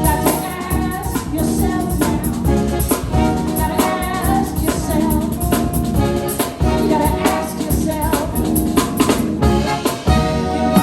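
A live band playing a song, with a singer over drum kit and other instruments.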